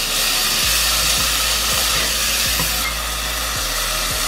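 Rice, onion and fenugreek leaves sizzling in a little hot oil in an aluminium pressure cooker while a wooden spatula stirs them. The sizzle is steady and eases a little about three seconds in.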